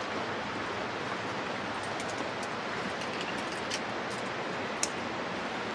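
Steady rushing outdoor noise with a few faint light clicks, and one sharper click about five seconds in.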